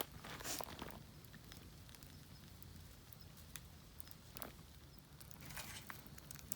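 Faint crackling of a wood fire in a small folding grill, sharp pops scattered irregularly, with a few short scuffing or rustling sounds about half a second in and again near the end.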